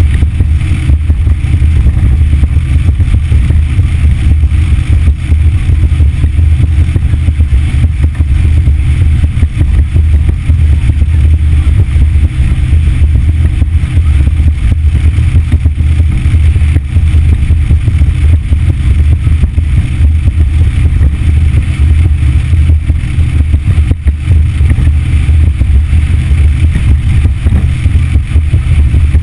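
A motorboat under way with its Yamaha F60 four-stroke outboard running at a steady speed, giving a loud, unchanging low drone.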